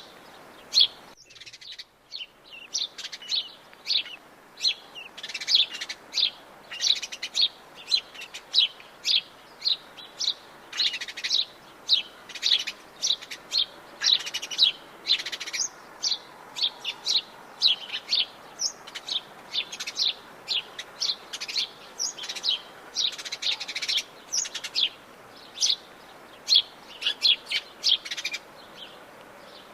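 Many forest birds chirping and singing at once, a dense run of short, high overlapping calls, with a brief hush about a second in.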